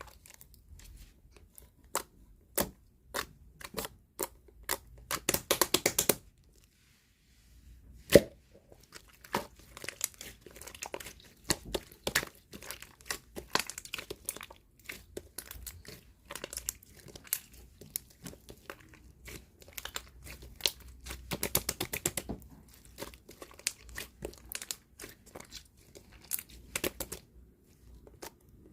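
Clear slime being squished, folded and pressed by hand, making rapid wet clicks and crackling pops as air pockets burst. The clicking comes in dense flurries with a brief pause a quarter of the way in, followed by one sharp loud pop.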